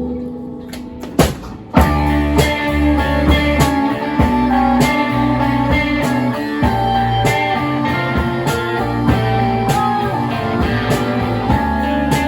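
Live band playing an instrumental passage. A held chord fades, and after two sharp hits the full band comes in about two seconds in, with electric guitar notes over a steady run of drum hits.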